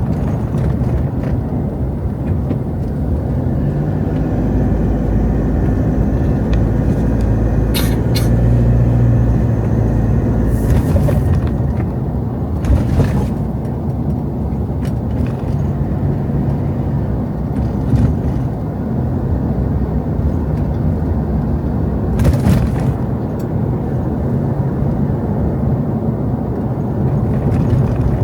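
Motor vehicle engine running steadily on the road, its pitch shifting a little partway through, with a few short hisses.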